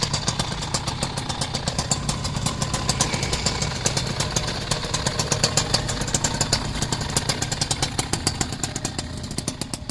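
Underbone motorcycle engine running with rapid, even exhaust pulses at a steady pace, easing off slightly near the end.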